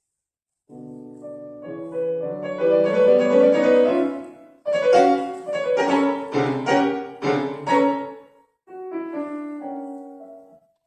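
Solo piano playing in three phrases with short breaks between them: the first swells to loud, the second is a run of loud struck chords, and a quieter phrase comes near the end.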